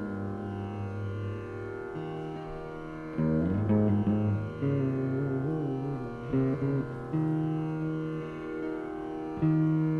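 Saraswati veena playing a Carnatic krithi in raga Khamas: plucked notes with sliding ornaments, and long notes held and left ringing near the end.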